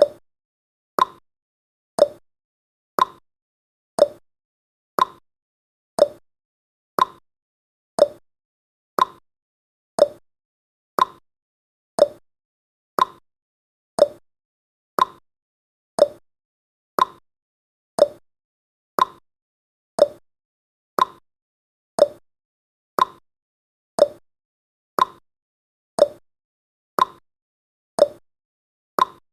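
Countdown timer's clock-tick sound effect: one short, sharp tick every second, evenly spaced, each fading quickly.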